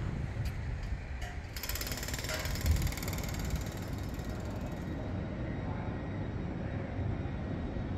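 A train running slowly into a station platform: a low steady rumble, with a few sharp metallic clicks in the first second and a half.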